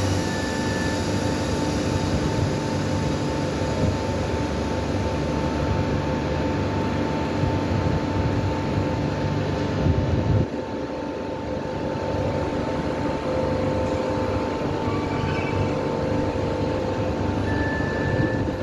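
Regional train standing at a station platform, its onboard equipment running with a steady hum and a few steady whining tones. The deeper part of the hum cuts out about ten seconds in.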